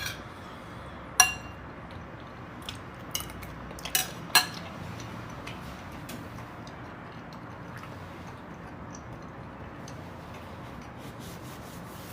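Metal cutlery clinking against a dish about four times, each with a short ring, in the first half, then faint small ticks over a low steady background.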